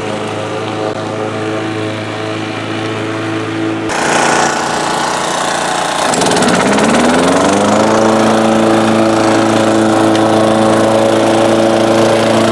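1987 Honda HRA214 lawn mower's single-cylinder engine running steadily under mowing. About four seconds in the sound changes abruptly, then the engine's pitch climbs over a couple of seconds and holds steady at a higher speed.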